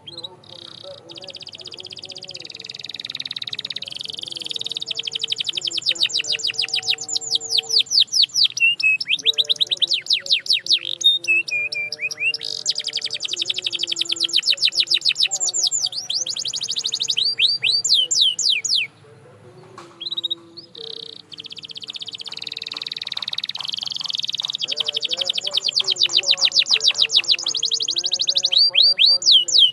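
Domestic canary singing: long, fast trills of rapidly repeated high notes, run together into extended phrases, with a short pause a little past the middle.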